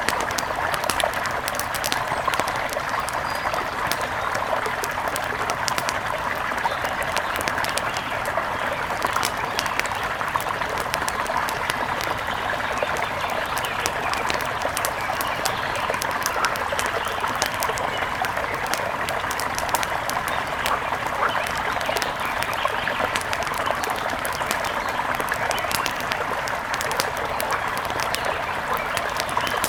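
Wood fire crackling with many sharp, irregular pops over a steady rush of running river water.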